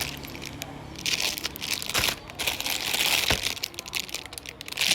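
Crinkling and rustling as small fidget toys are handled, with two sharp clicks about two and three seconds in.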